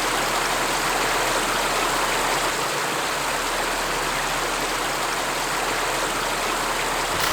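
Creek water rushing steadily over its bed, a constant even rush that cuts off abruptly at the very end.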